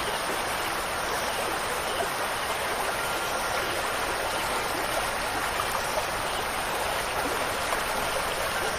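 Steady rush of running water, a stream with a fine crackle of small splashes. A faint, high held ringing note sits under it from about three seconds in.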